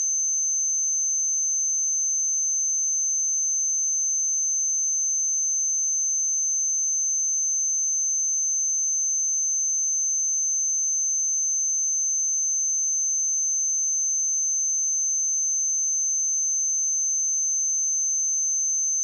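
A steady pure sine-wave test tone at 6222 Hz, one unchanging high-pitched whistle-like note.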